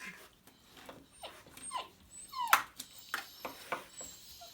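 Bullmastiff puppy whimpering and yipping in play: a few short, high cries that fall in pitch, the loudest about two and a half seconds in.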